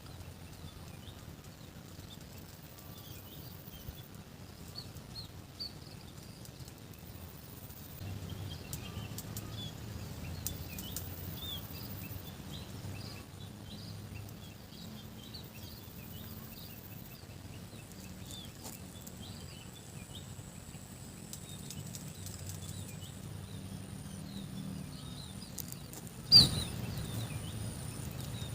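Small birds chirping busily over a low steady rumble, with one sudden loud burst near the end.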